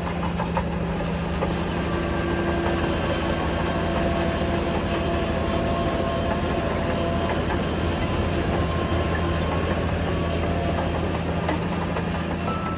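Shantui DH17C3 crawler bulldozer running steadily, its diesel engine holding an even tone under a continuous clanking clatter of steel tracks.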